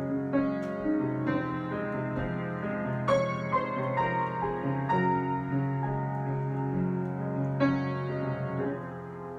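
Solo piano improvisation: slow chords and single notes struck and left to ring, a new chord every second or two, with the playing easing off and fading near the end.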